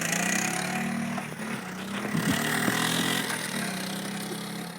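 Dirt bike engine running while it warms up. Its pitch rises right at the start, then holds fairly steady with a wavering stretch and a few short knocks about two seconds in.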